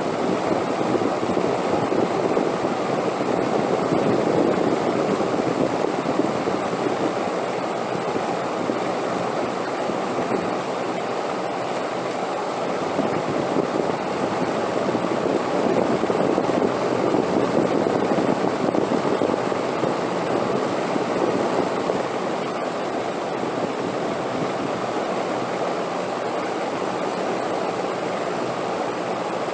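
Wind blowing steadily, swelling and easing in slow gusts twice.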